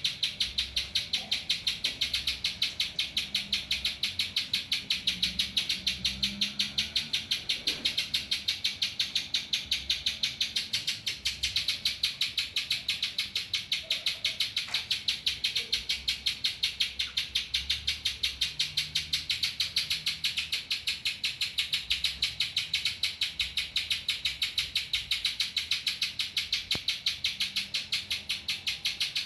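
Little spiderhunter (pinjantung) singing a steady, unbroken stream of high, rapid chirps, about five a second, in the bar-winged prinia (ciblek) style it has learned as song material.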